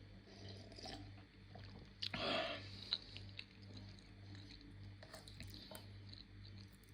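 A person chewing and crunching food, with a louder noisy burst about two seconds in and a few small clicks.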